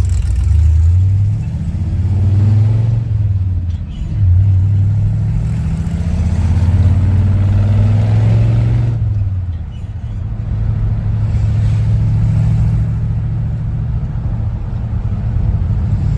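Car engine accelerating, its pitch climbing twice and dropping at gear changes, then settling into a steady cruise.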